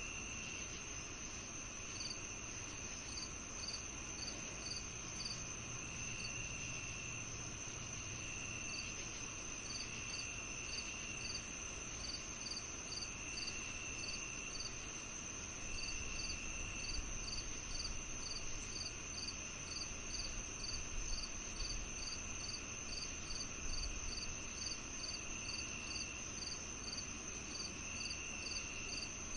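Crickets chirping in an evening chorus: a steady high trill, quick regular chirps above it, and a lower trill that comes and goes every few seconds.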